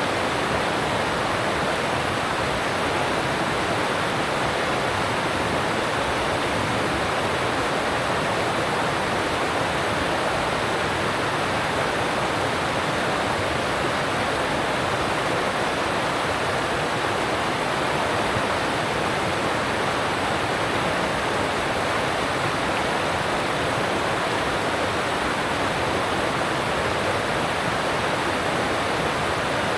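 Alpine stream rushing over rocks: a steady, even rush of water.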